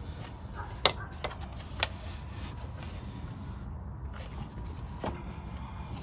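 A few sharp clicks and knocks from air intake parts being handled and clipped together, the loudest about a second in and another near two seconds, over a low steady hum.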